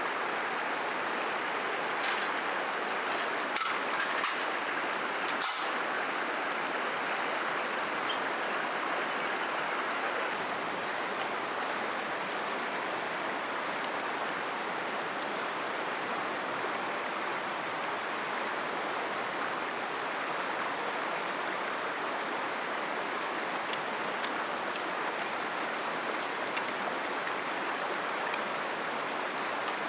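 Cataract River flowing steadily, an even rush of water. A few sharp clicks in the first several seconds, and a brief faint high chirp about two thirds of the way through.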